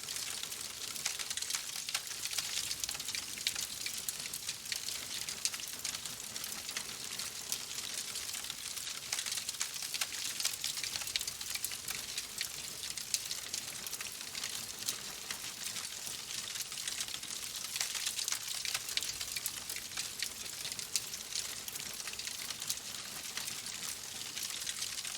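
Fireplace fire crackling steadily: a dense run of small snaps and pops over a soft hiss.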